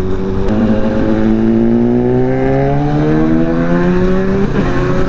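Sport motorcycle engine accelerating hard, its pitch climbing steadily for about four seconds, then breaking briefly near the end, heard over wind rush.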